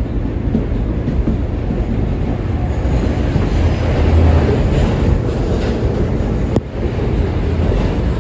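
R143 subway train running along the track, heard from aboard: a steady, loud rumble of wheels and running gear, with a short click about six and a half seconds in.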